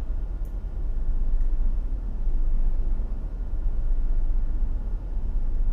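Low, steady rumble of a tugboat's engines, with faint steady tones over it.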